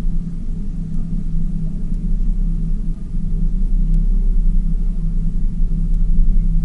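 Tour boat's engine running steadily, a constant low drone.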